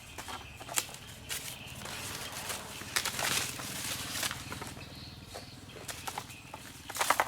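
Dry corn plants rustling with sharp snaps and cracks, the sound of ears being broken off the stalks by hand and leaves and husks brushing, over a steady low hum.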